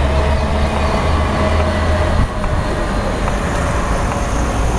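A large vehicle running with a deep, steady rumble and a faint steady whine over it, amid street traffic noise; the rumble drops away briefly about two seconds in, then returns.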